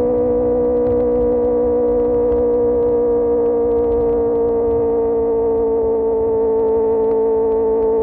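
QJMotor SRK600's inline-four engine through an Austin Racing GP1R exhaust, held at steady revs at a constant cruise: one high, even drone whose pitch sags slightly over the seconds. Wind noise rushes underneath.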